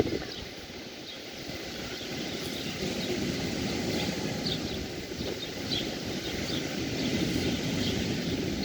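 Steady rushing of sea surf on a beach, with a few faint, short bird chirps high above it.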